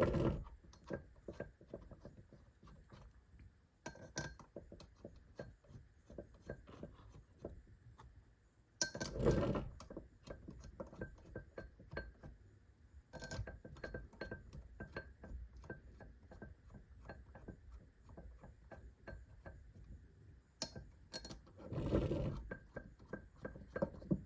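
Small metal clicks and clinks of bolts being handled and hand-threaded into a transmission case, with three louder rattles of about a second each, at the start, about nine seconds in and near the end.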